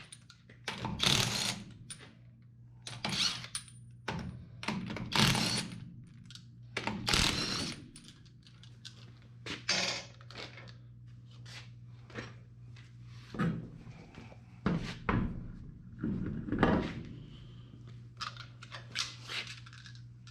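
A cordless impact wrench and its loose steel sockets in use: short bursts of metallic clatter and thunks, about a second each in the first half, then shorter sharp clicks, over a steady low hum.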